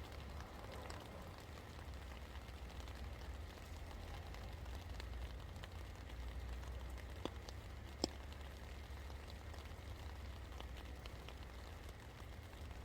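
Steady rain falling, with a light patter of individual drops and two sharper drip clicks a little past the middle, over a low steady rumble.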